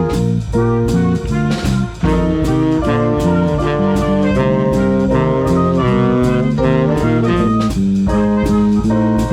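Swing big band playing a jazz tune: saxophones and brass in ensemble over a drum kit keeping a steady beat.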